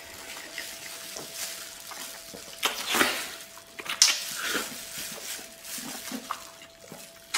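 Close-up eating sounds: a man biting into and chewing the skin of a braised tiger-skin pork knuckle, irregular wet chewing and smacking noises, the sharpest about four seconds in. A faint steady hum runs underneath.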